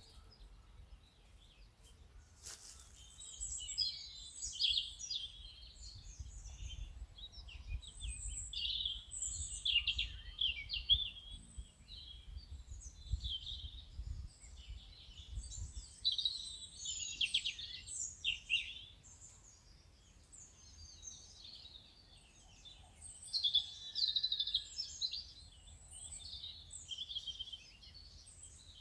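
Many small songbirds chirping and singing, with short overlapping calls all the way through and a faint low rumble underneath.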